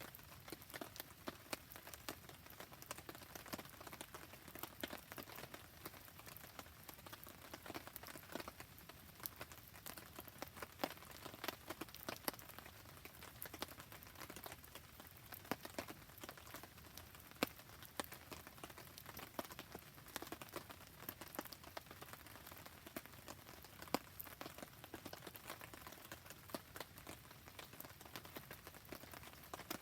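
Rain pattering steadily, mixed with a wood campfire crackling: a dense, irregular run of small sharp clicks and pops over a soft hiss.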